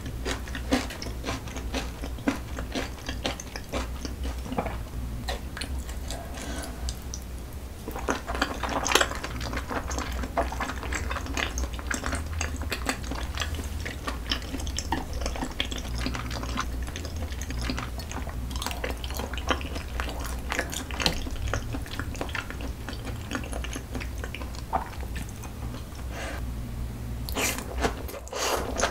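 Close-miked chewing and wet mouth sounds of eating salmon sashimi and nigiri, with metal chopsticks clicking and scraping on a ceramic plate. Many small ticks and clicks, with a steady low hum underneath and a louder burst of activity near the end.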